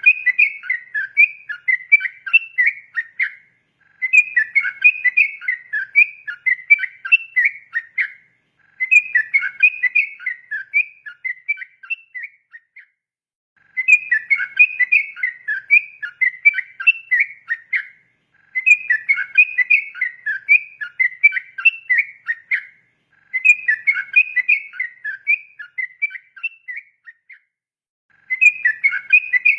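Yellow-vented bulbul (trucukan) singing its long, rapid 'ropel' song of quick whistled notes. The song comes in phrases of about four seconds, each followed by a pause of about a second.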